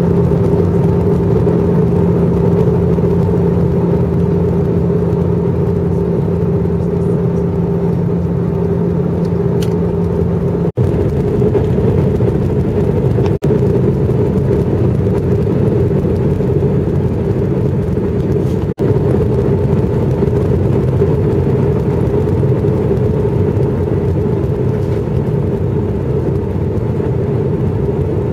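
Steady cabin roar of a jet airliner on its approach, engine and airflow noise with a steady hum. The lower hum stops about ten seconds in, and the sound cuts out for an instant three times.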